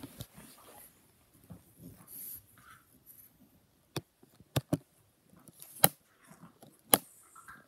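Dog scuffling and biting at a cushion, with five sharp clicks or knocks in the second half, two of them close together.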